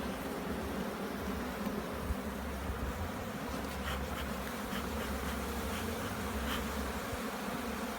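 Many honey bees buzzing steadily around an open hive, with a low rumble underneath and a few faint ticks partway through.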